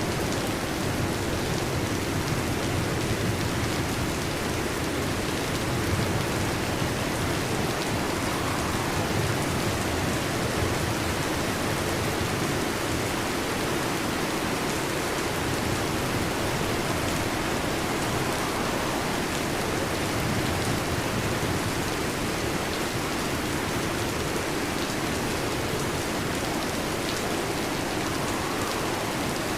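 Heavy rain falling steadily, a dense even hiss of drops. A low rumble of distant thunder swells under it during roughly the first ten seconds.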